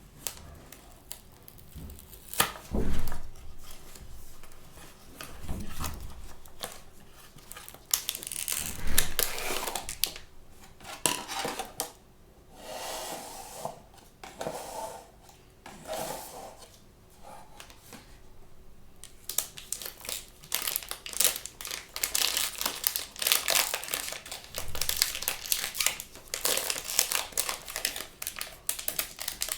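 Packaging of a blind-bag toy crinkling and tearing as it is opened by hand: bursts of dense crackling, heaviest in the second half, with a couple of louder thumps early on.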